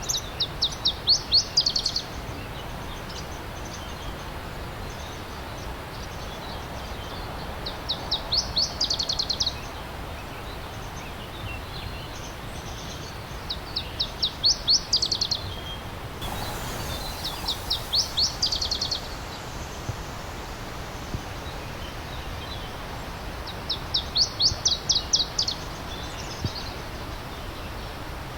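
A songbird repeating a short, fast trill phrase of high notes, five times, each a couple of seconds long, over a steady stream rushing.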